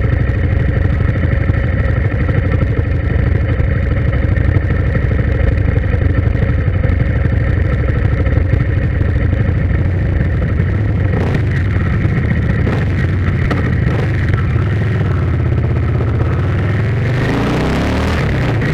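A motor vehicle's engine running steadily; about seventeen seconds in its note changes and rises.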